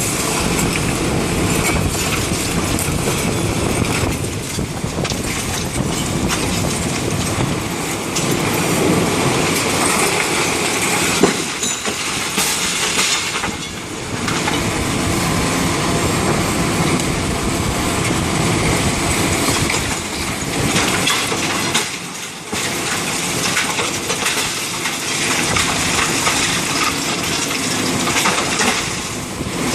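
Building demolition: a continuous loud crunching rumble of concrete being broken and rubble falling, dipping briefly twice.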